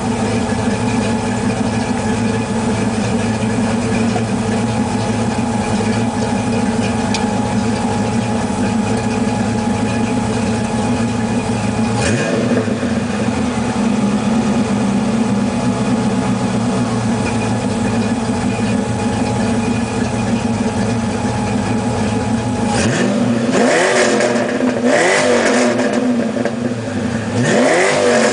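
1988 Ford Mustang Fox-body 5.0L V8 through a Flowmaster exhaust, idling steadily with a brief blip of the throttle partway through, then revved up and let fall back several times near the end.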